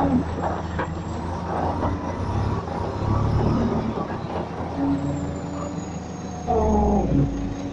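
Diesel engines of construction machines running steadily while loading a dump truck, with scattered clanks and knocks. The engine sound gets louder for about a second, about six and a half seconds in.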